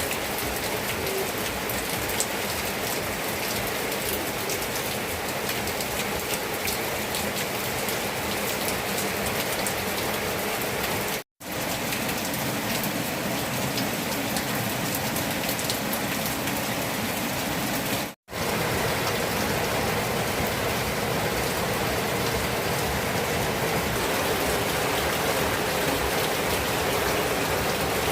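Steady rain falling, an even hiss of many drops. The sound drops out for an instant twice, about 11 and 18 seconds in.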